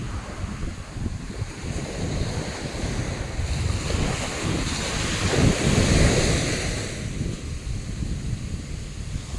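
Sea waves washing onto the beach, with wind buffeting the microphone; one wave swells up and breaks louder about five to six seconds in.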